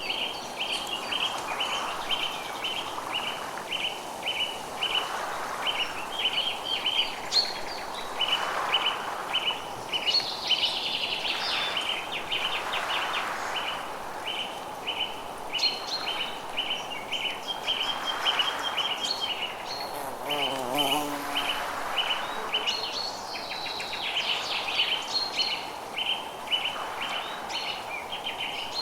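Forest ambience: small birds chirping in quick repeated short notes, two or three a second, over a steady soft hiss that swells and fades every few seconds, with a brief wavering lower call about two-thirds of the way through.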